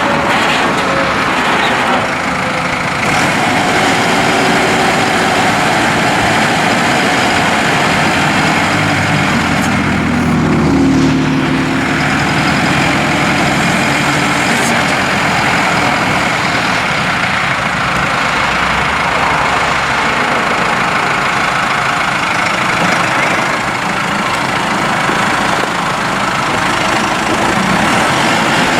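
New Holland T4.75 tractor's four-cylinder turbo diesel engine running steadily, with a brief rise in engine speed about ten seconds in before it settles back.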